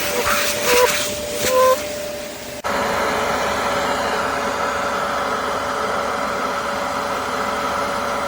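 BISSELL Revolution HydroSteam carpet cleaner running, a steady suction drone with a steady whine. There are a couple of short rising squeaks in the first two seconds, and the sound changes abruptly about two and a half seconds in before running on steadily.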